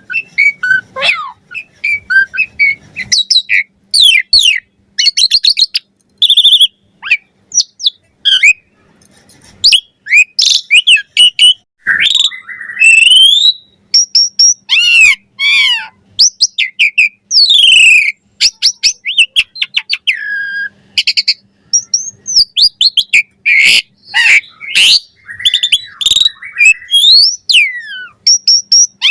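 Jalak suren (pied starling) singing continuously, a fast, varied run of loud whistles, chirps and notes that glide up and down, with short pauses between phrases.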